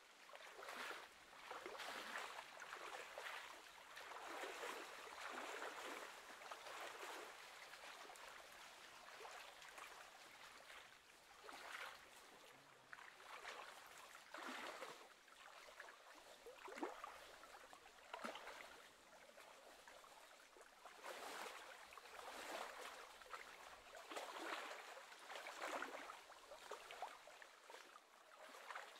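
Faint sound of small waves lapping and rippling, swelling and fading every second or two.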